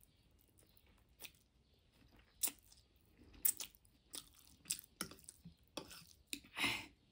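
A person chewing spicy noodles close to the microphone: a string of separate sharp, wet mouth clicks and smacks, with a longer, louder rush of sound near the end.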